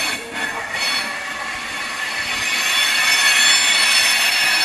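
Train moving along the track at a station, its wheels giving a steady high-pitched metallic squeal that swells in loudness over the first few seconds.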